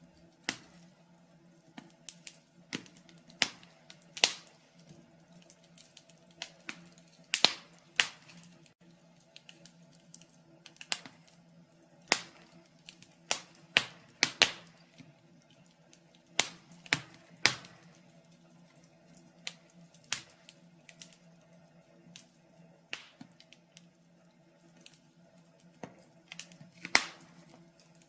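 Wood fire crackling in a fireplace: irregular sharp pops and snaps, sometimes several close together, over a faint steady low hum.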